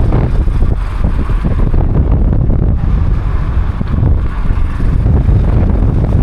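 Wind buffeting the microphone: a loud, low rumble that rises and falls in gusts.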